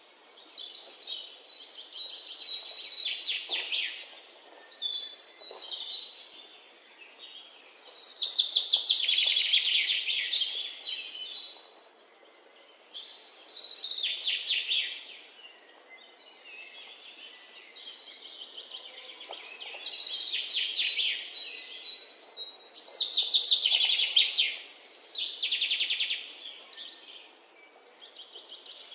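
Songbird singing: a series of rapid, high trilled phrases, each a second or two long, repeating with short pauses between them.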